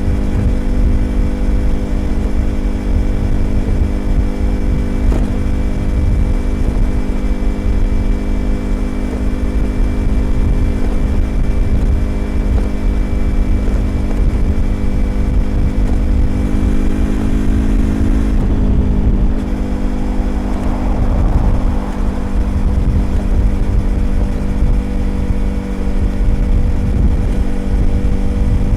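Yamaha YZF-R25's 250 cc parallel-twin engine through a Prunus aftermarket exhaust, running at steady revs under way with wind rush. The engine note creeps up, then drops suddenly about two-thirds of the way through and carries on steady at a lower pitch.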